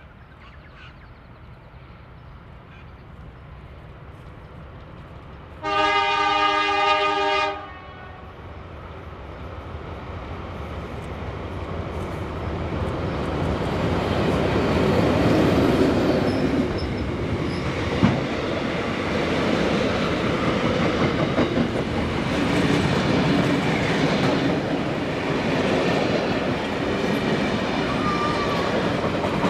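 Approaching diesel locomotive sounds its horn in one blast of about two seconds a few seconds in. The locomotive's rumble then grows louder as it passes, followed by the steady clickety-clack of the carriage wheels over the rail joints, with one sharp knock partway through.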